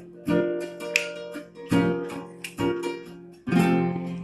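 Acoustic guitar strumming chords, about five strokes roughly a second apart, each ringing out and fading before the next.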